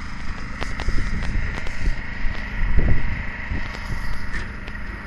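Open-air ambience with a gusty low rumble of wind on the microphone, a faint steady high tone, and scattered light clicks and knocks, one heavier about three seconds in.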